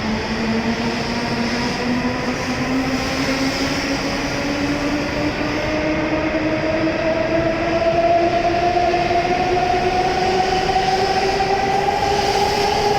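E7 series Shinkansen traction motors and inverters whining as the train accelerates away from the platform: two tones rising slowly and steadily in pitch over a rushing rumble.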